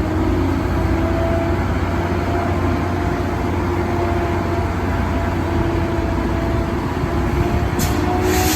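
A train running with a steady low rumble and an engine hum, and a sharp hiss of air starting near the end.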